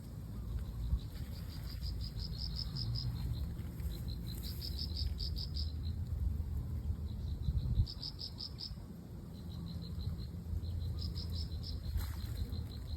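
An insect chirping in short trains of rapid high pulses that repeat every few seconds, over a low steady rumble.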